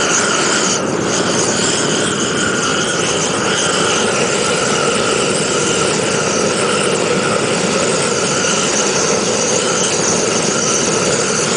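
Gas blowtorch flame running steadily: a continuous, even rushing hiss with no breaks.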